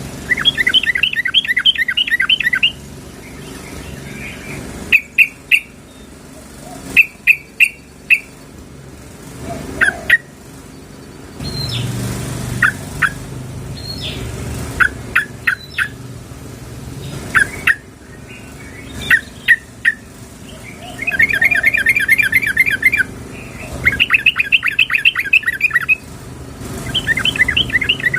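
Yellow-vented bulbul (trucukan) calling: bursts of rapid chattering trills alternate with short single chirps. This is the female's call to a male, of the kind used to lure males.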